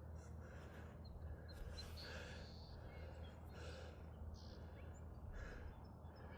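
Faint breathing, with a noisy breath about every two seconds, over a low steady hum.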